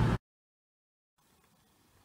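Steady running hum of a CrossCountry Voyager diesel train, cut off abruptly a fraction of a second in, then silence with only a faint hiss.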